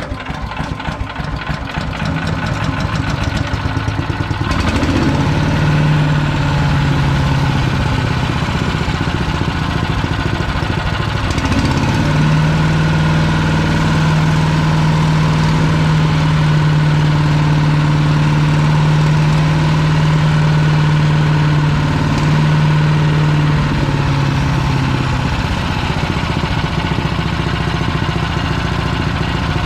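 PowerMate wood chipper's 212cc single-cylinder engine running steadily. A strong low hum comes in from about five to eight seconds in and again from about twelve to twenty-five seconds in. The owner takes this for a noise from something internal that the chipper normally makes.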